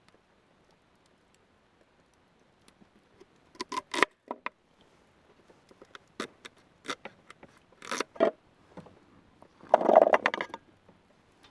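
Scattered knocks and clinks of hard objects being handled, a few single strokes spread through the middle. Near the end comes a denser rattle of quick clicks, the loudest part.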